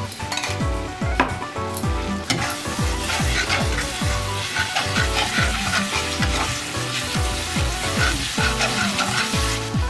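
Onion-tomato masala with ground spices sizzling in a pan as it is stirred, over background music with a steady beat.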